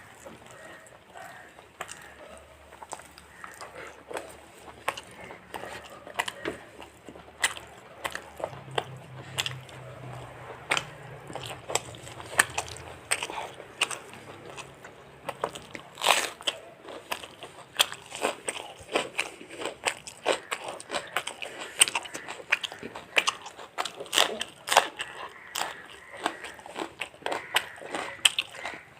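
Close-up chewing and biting of fried chicken, with frequent short, sharp crunches of the crisp fried coating at an irregular pace.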